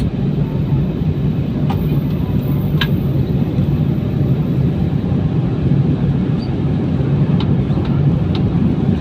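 Steady low rumble of airliner cabin noise: engines and airflow heard from inside the passenger cabin, with a few faint clicks.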